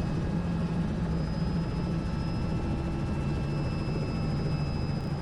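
Robinson R66 helicopter running steadily, heard from inside: its Rolls-Royce RR300 turbine gives a steady whine over the low rotor and engine drone.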